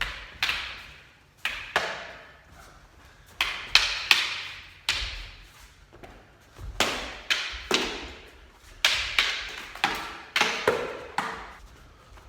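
Strikes landing on a heavy bag in quick combinations of two to four hits, each a sharp thud that dies away in the room.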